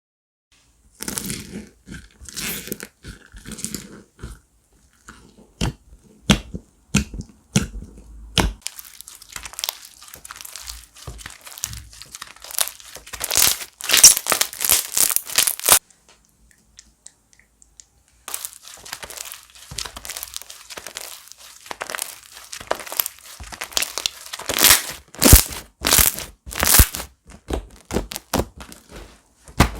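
Slime being squeezed, stretched and pressed by hand, with many sharp clicks and crackles as trapped air pops. The popping grows dense and loud before the middle, stops for about two seconds, then resumes.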